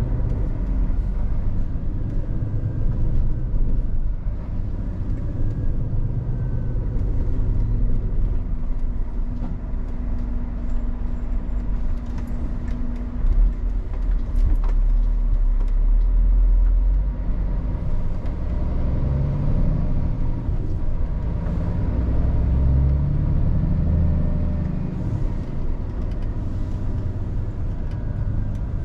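Scania R450 truck's 13-litre inline-six diesel running on the road, a steady low rumble with tyre noise. The engine note rises and falls in the second half.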